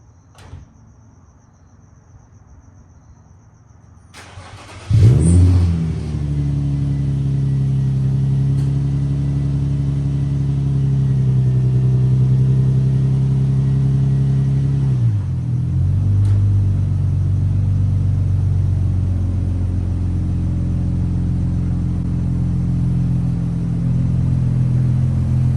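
Infiniti G35's VQ-series V6 cranks and starts about five seconds in, catching with a loud burst. It then runs at a fast cold-start idle, and about ten seconds later the revs drop and settle to a steady, lower idle.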